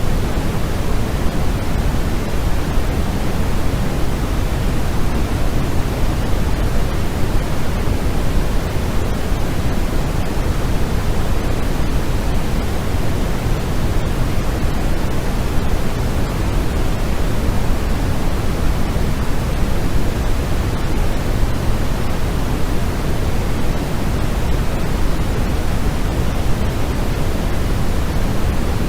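Steady, unchanging white noise for sleep, a full hiss that is heavier and deeper in the low end and thins out toward the top, more like pink noise.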